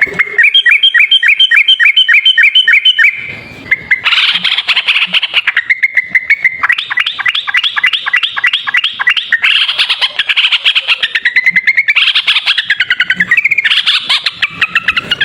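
Yellow-vented bulbul (trucuk) singing loud, fast rolling runs of repeated chirping notes, several a second. It breaks off briefly about three seconds in, then carries on.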